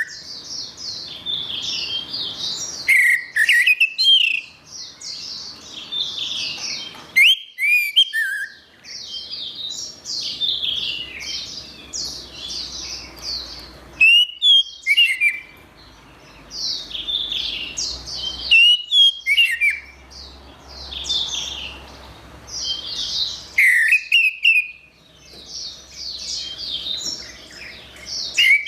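Orange-headed thrush singing a long, rapidly varied whistled song in phrases of about four to five seconds, each cut by a short break.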